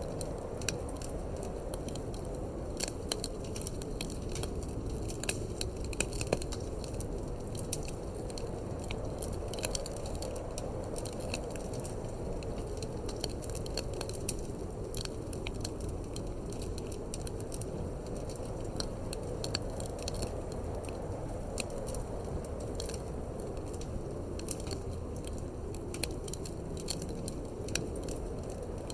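Wood fire in a fireplace crackling, with many small sharp pops scattered throughout over a steady low rush of wind.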